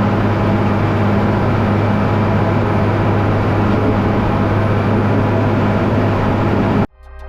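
Vehicle engine running steadily with a strong low hum, cut off abruptly near the end.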